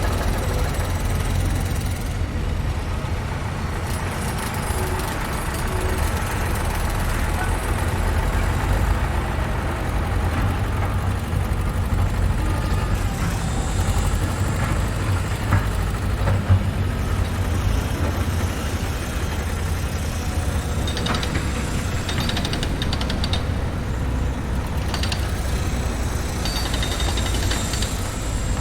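Construction-site machinery: a heavy engine runs with a steady low rumble. Two sharp knocks come about halfway through, and short metallic clattering strokes are added in the last third.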